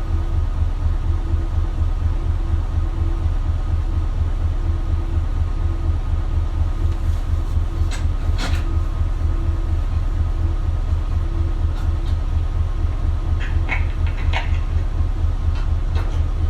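Isuzu Erga diesel route bus heard from inside the cabin with its engine idling, an evenly pulsing low throb. A soft beep repeats about every two-thirds of a second and stops about ten seconds in. A few short clicks and knocks come about halfway through and again near the end.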